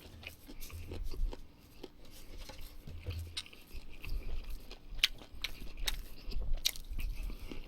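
Close-up chewing of a mouthful of barbecued meat with white kimchi and chives: wet mouth clicks and smacks scattered throughout over low chewing rumbles.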